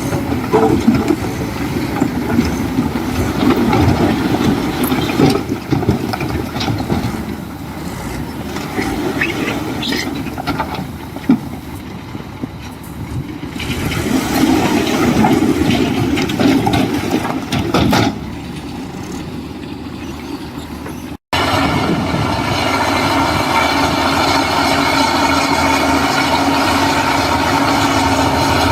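Heavy earthmoving machinery working: a diesel engine running under varying load, with irregular clanking and clattering. About 21 s in the sound cuts off abruptly and gives way to a steady diesel engine drone.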